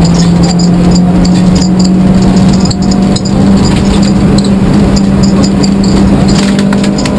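Rally car engine heard from inside the cabin while driving a stage, holding a steady pitch, with road noise and a few clicks near the end.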